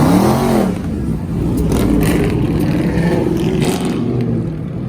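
A car engine is revved once right at the start, its pitch rising sharply and falling back. It then runs on with a few smaller rises in pitch.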